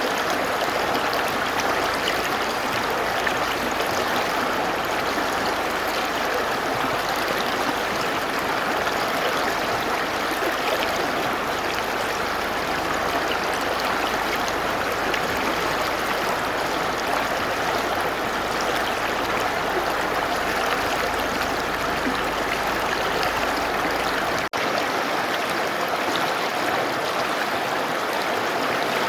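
Mountain river flowing steadily, a continuous rush of water noise with a momentary dropout near the end.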